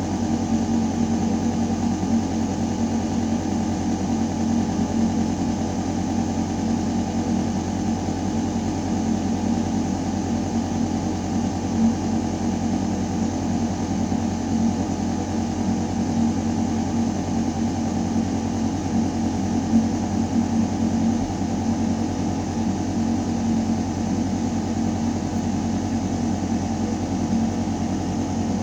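Building ventilation system running: a steady mechanical hum with a few held tones, the strongest a low one, over the rush of air moving through metal ductwork.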